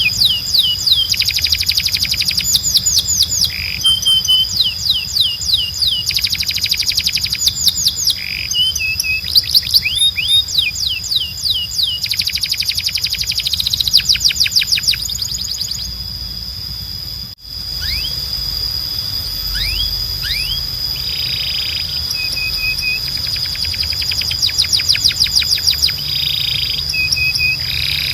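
Timbrado canary singing: rapid trills of quickly repeated falling notes in phrases of a second or two, broken by short held warbles, over a steady high-pitched tone. There is a brief break in the song a little past halfway.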